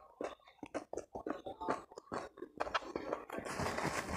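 Close-miked chewing and mouth sounds of a man eating spicy instant noodles: quick, wet clicks and smacks. About three seconds in, a steady rustling hiss sets in.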